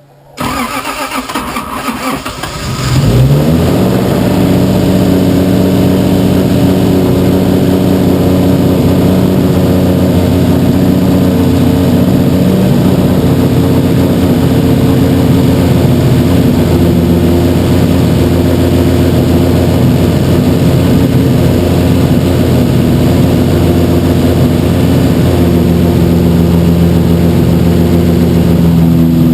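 Rebuilt Toyota 1JZ-GTE straight-six, fitted with aftermarket cams and a big turbo, cranking on the starter for about three seconds, then catching and running steadily.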